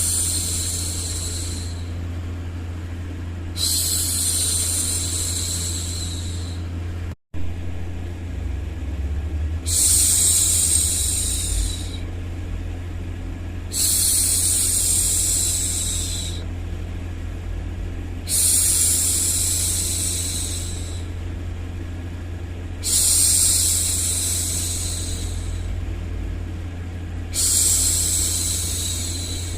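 A woman's long 'shhh' hushing sounds, repeated about every four and a half seconds, each held two to three seconds, over a steady low background rumble. The sound cuts out for an instant about seven seconds in.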